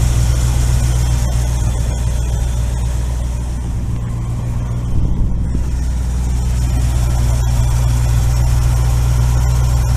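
International Harvester 345 V8 engine idling steadily, with a brief dip and small swell in level about four to five seconds in.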